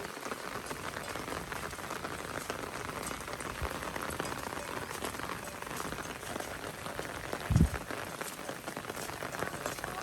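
Steady typhoon rain pattering down, a dense crackle of drops, with one short low thump about seven and a half seconds in.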